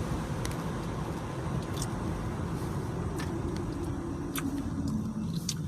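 Motor vehicle noise: a steady low rumble with a faint hum and a few light clicks.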